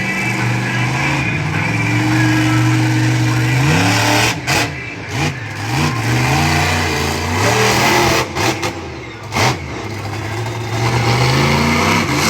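Monster truck engine running loud and steady for a few seconds, then revved up and down again and again, with several short sudden dips in the sound.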